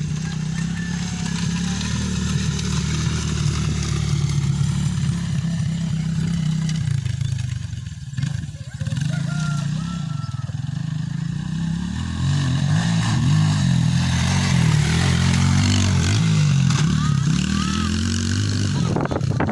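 Motocross dirt bike engine running and revving, its note rising and falling with the throttle. It dips briefly about eight seconds in, then revs louder and more busily from about twelve seconds.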